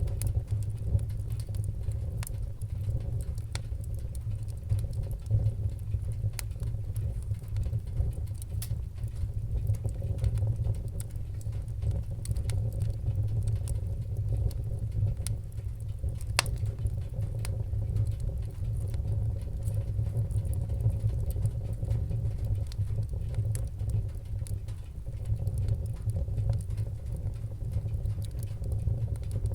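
Wood fire burning in a fireplace: a steady low rumble of the flames with scattered sharp crackles and pops, a few louder than the rest.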